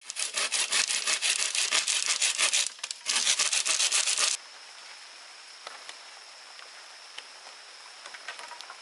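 Hand saw cutting through wood in quick, rasping strokes, with a brief pause just under three seconds in. The sawing stops about four seconds in, leaving a quieter steady high-pitched drone with a few faint ticks.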